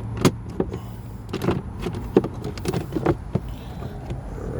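Plastic clicks, taps and scrapes as a trim piece behind a car's glove compartment is slid and pushed into place by hand, with a steady low hum underneath.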